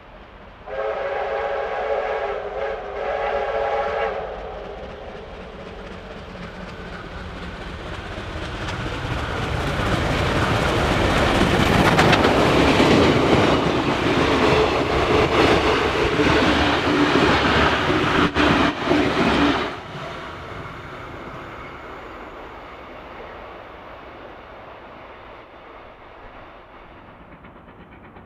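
Steam locomotive R761, a Victorian Railways R class 4-6-4, sounds its whistle for about three seconds with two brief breaks. Then it approaches and passes with its train, the noise of locomotive and wheels on rail building to a loud peak. The loud passing cuts off suddenly about twenty seconds in, leaving a fading rumble.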